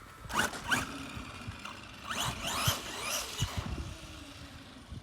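Arrma Gorgon RC monster truck's upgraded electric motor whining up under hard throttle: a short rising whine about half a second in, then a longer burst of several rising whines from about two to three and a half seconds.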